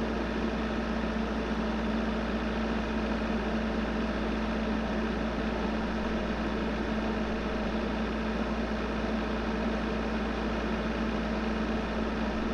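Excavator's diesel engine running steadily with an even, unchanging hum.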